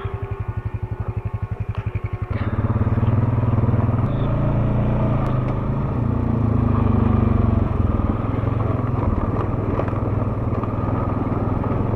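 ATV engine idling with an even putt-putt, then throttled up about two seconds in and running steadily under load as the quad pulls away.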